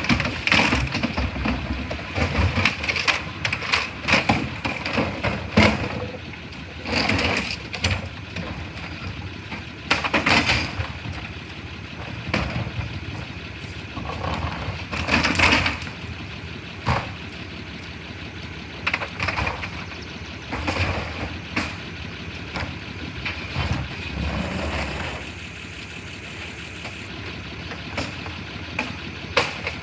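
Garbage truck engine running steadily, with irregular loud bangs and clatter throughout.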